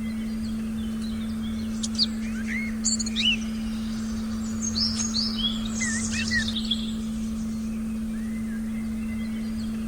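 Forest birds chirping in short, quick high notes, most of them in a cluster from about two to seven seconds in, over a steady low humming tone and a faint low rumble of forest ambience.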